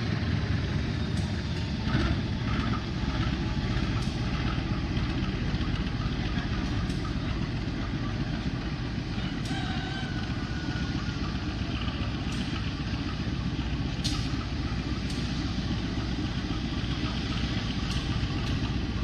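Diesel train running, a steady low rumble with scattered sharp clicks and knocks.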